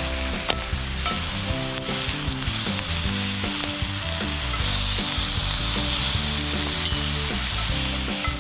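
Food sizzling in a hot pan: a steady hiss with scattered small pops, over background music.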